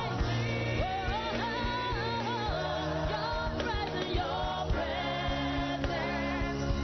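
Gospel worship song: singing over a band backing with held bass notes and a steady beat.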